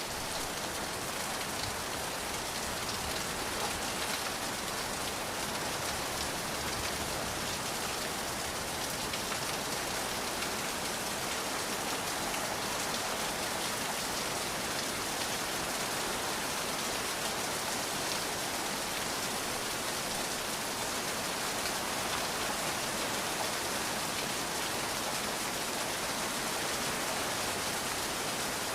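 Steady rain falling, an even hiss of drops with no thunder in this stretch.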